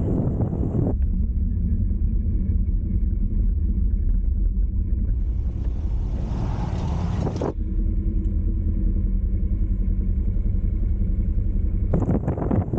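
Motor vehicle engine running at a steady speed with road rumble. Gusts of wind noise hit the microphone at the start, again about halfway through, and near the end.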